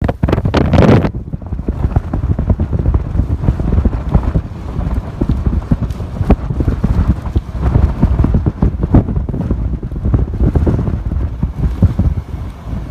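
Typhoon-force wind gusting and buffeting the microphone: a loud, uneven low rumble with rapid thumps, and a hissing rush in the first second.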